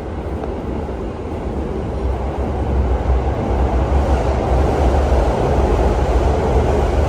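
Moving train: a steady low rumble with rushing noise, growing louder about two seconds in.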